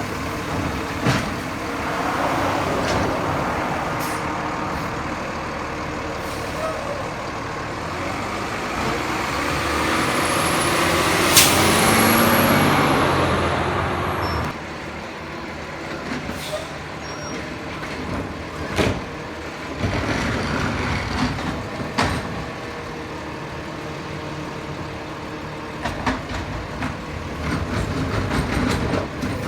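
McNeilus Zero Radius garbage truck's diesel engine running, building up from about a quarter of the way in and dropping back suddenly around halfway. Several sharp air-brake hisses and knocks come through over it.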